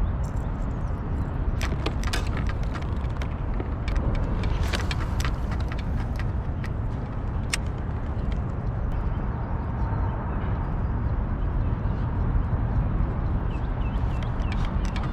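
Steady low rumble of wind buffeting the microphone, with scattered sharp clicks and knocks, most of them in the first half.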